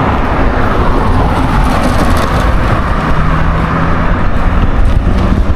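Motor vehicle passing close by: a steady rush of engine and tyre noise, with a low engine hum for about two seconds past the middle.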